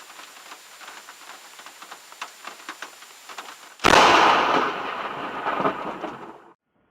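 Rain pattering with scattered drop ticks, then about four seconds in a sudden loud thunderclap from a close lightning strike, fading over a couple of seconds before it cuts off abruptly.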